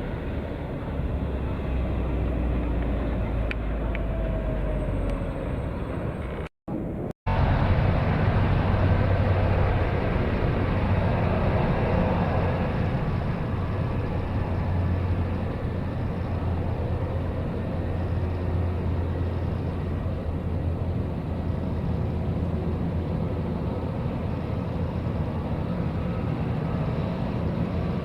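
Jet airliner engines on landing approach: a steady low rumble that grows louder and fuller after two brief dropouts about seven seconds in.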